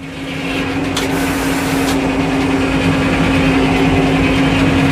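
An engine running steadily at a constant speed, an even hum with one held tone.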